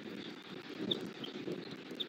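Steady low outdoor rumble with a few short, faint, high bird chirps scattered through it.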